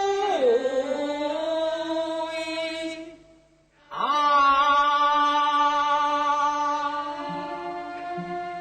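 Teochew opera singing: a voice holds two long drawn-out notes, each sliding into pitch at its start, with a short break between them about three and a half seconds in, over a faint instrumental accompaniment.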